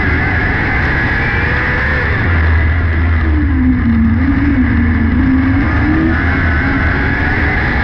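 600cc micro sprint car's motorcycle engine running at racing speed, its note dipping and rising again with the throttle through the turns.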